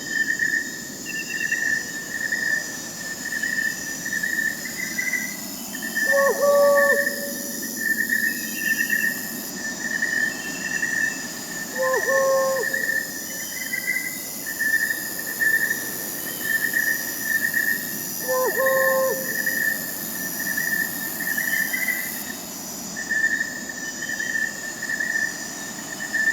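Crickets chirping steadily in a dense chorus, while an owl hoots a short call with a slight downward tail four times, about every six seconds.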